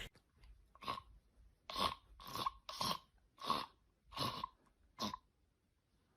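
Crunchy chewing: seven short crunches, each about a quarter-second long, coming every half-second to second.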